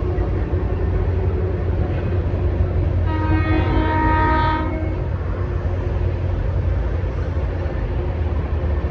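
EMD SD40-2 diesel locomotive's engine running with a steady low rumble, and the locomotive's horn sounding one blast of about a second and a half a few seconds in.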